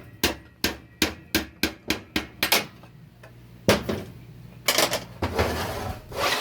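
Hammer striking metal: a quick run of about ten sharp blows, about four a second, then a few more spaced strikes and a rougher, sustained metallic clatter near the end.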